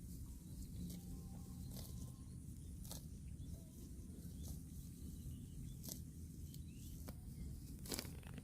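A cow tearing and chewing fresh grass: a few irregular crisp crunches over a low rumble.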